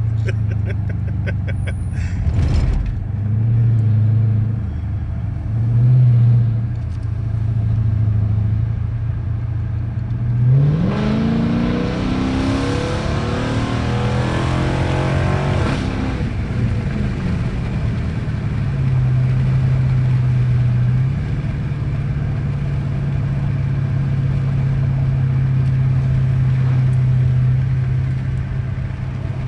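2013 Dodge Charger engine running at low revs while driving, with a brief knock about two seconds in. About ten seconds in it accelerates hard, the engine note climbing for several seconds before dropping back, then it settles into a steady, slightly higher drone.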